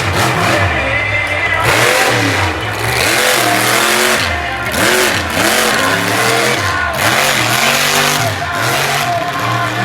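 Monster truck engine revving up and down again and again, under background music.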